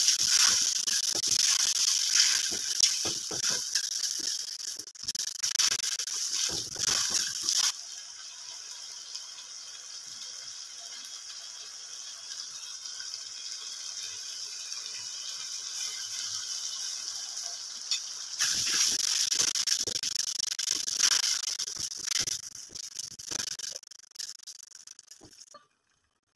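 Tomato and onion masala sizzling in oil in a stainless steel pot, with a spatula scraping and clacking against the pot as it is stirred. The sizzle and clatter drop to a quieter steady hiss for about ten seconds in the middle, pick up again with more stirring, and fade out near the end.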